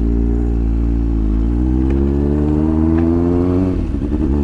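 Kawasaki ZX-9R inline-four motorcycle engine under way, its pitch rising steadily as the bike accelerates, then dropping abruptly near the end at a gear change before pulling steadily again.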